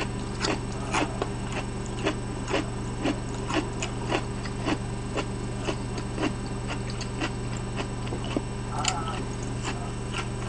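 Close-miked chewing of crisp kohlrabi pickle: short crunches at about two a second, over a steady low electrical hum. A short faint whine about nine seconds in.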